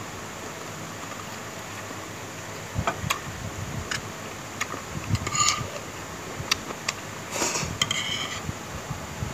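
Close-up eating sounds of boiled chicken and rice: irregular chewing and mouth smacking, with a few sharp clicks, starting about three seconds in after a steady hiss.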